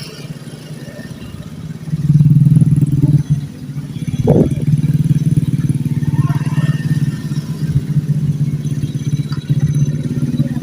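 An engine running steadily with a low, even hum that gets much louder about two seconds in.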